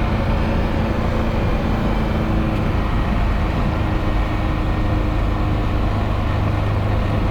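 Nissan 240SX driving, its engine and exhaust making a steady low drone; the exhaust has a hole blown in it.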